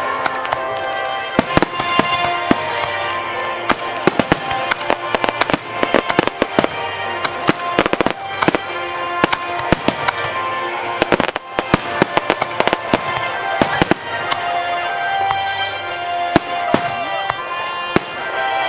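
Aerial fireworks bursting and crackling at close range, a rapid string of sharp bangs, with music playing underneath.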